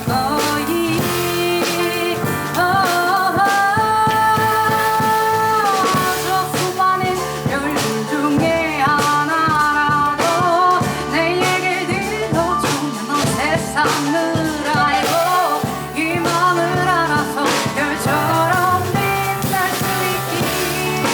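Live jazz band playing: piano, double bass and drum kit, with a melody line that holds long notes and bends between them.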